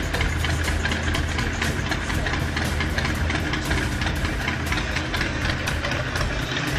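Harley-Davidson Sportster 48's air-cooled V-twin engine idling with a steady, uneven pulsing beat.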